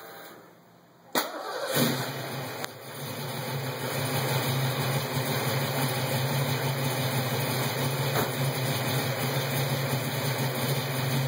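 A 1967 Mustang's fuel-injected 302 V8 with 351 Cleveland heads and EDIS8 distributorless ignition clicks, cranks briefly and fires right up about two seconds in, then settles into a steady idle. This is its first start since sitting for years.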